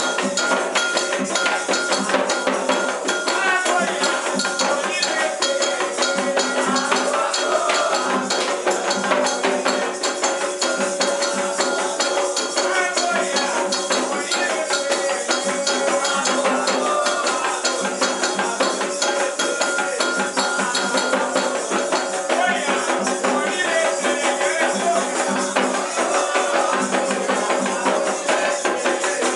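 Candomblé ceremonial music: fast, steady percussion with shaken rattles under sustained tones and voices.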